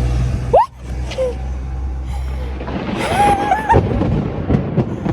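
A close lightning strike: a sudden loud thunderclap about half a second in, cutting through a low rumble, followed by startled shrieks and cries.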